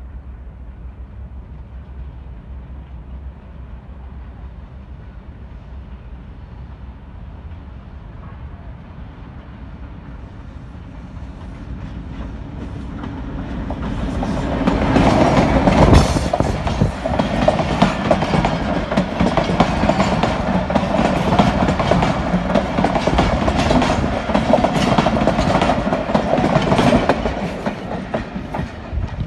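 Pakistan Railways Hitachi HBU-20 diesel-electric locomotive hauling a passenger express past at speed. A low engine rumble grows as the locomotive nears and is loudest as it passes about halfway through. Then the coaches' wheels give a rapid clickety-clack over the rail joints, easing as the last coach goes by near the end.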